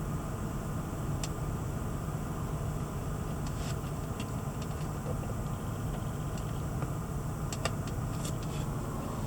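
2006 Range Rover Sport Supercharged's supercharged 4.2-litre V8 idling steadily after a cold start, with a few faint clicks.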